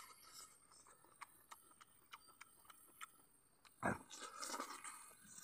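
A man eating by hand and chewing, with faint wet mouth clicks about three times a second, then a louder bite and chewing noise about four seconds in.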